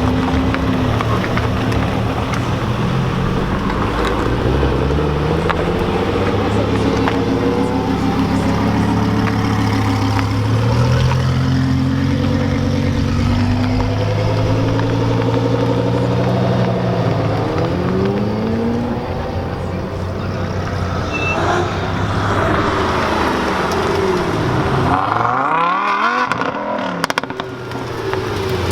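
Several car engines running and revving at once, their pitch rising and falling as cars pull away and pass.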